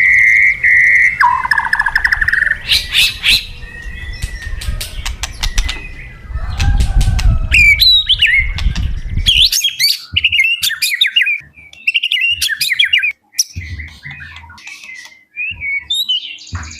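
White-rumped shama singing a varied song: a held whistle, fast trills, sliding notes and sharp chattering notes in quick succession. A low background rumble under the song stops about ten seconds in.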